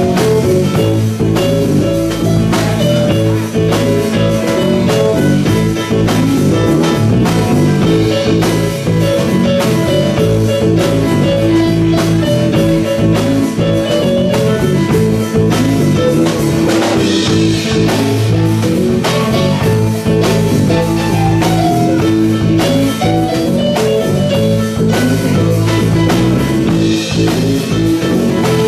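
Live rock band playing an instrumental passage: electric guitar lead over bass and drum kit, with steady drum hits throughout.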